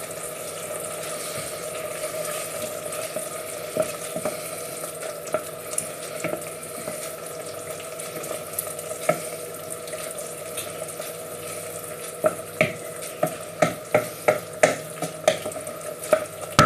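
Rice and sausage cooking in stock in a pan, a steady sizzling hiss with a steady hum underneath. In the last few seconds a spoon knocks against the pan about twice a second as the risotto is stirred.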